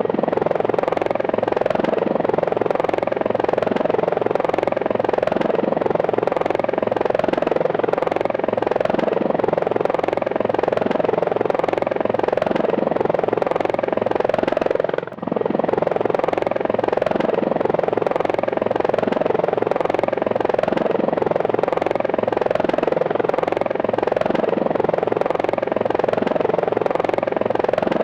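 Helicopter running steadily, its rotor beating in a fast even pulse. A brief drop in level comes about halfway through.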